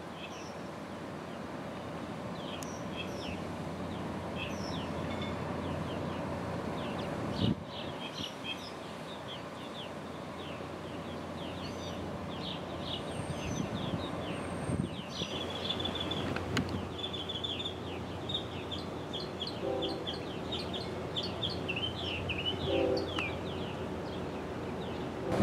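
Small birds chirping in quick, repeated calls, growing busier partway through, over a steady outdoor background hum. A single knock about seven and a half seconds in.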